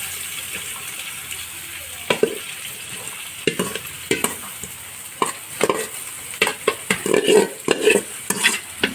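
Chopped onions sizzling in hot ghee in a large metal pot, with a ladle scraping against the pot as they are stirred. The stirring strokes start about two seconds in and come more often toward the end.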